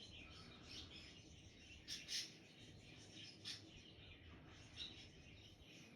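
Faint, scattered bird chirps: a few short high calls, the clearest about two seconds in and again around three and a half seconds.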